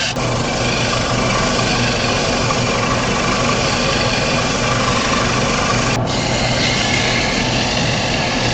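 Steady machine hum and rush of workshop machinery running, with a constant low drone. The sound changes abruptly about six seconds in.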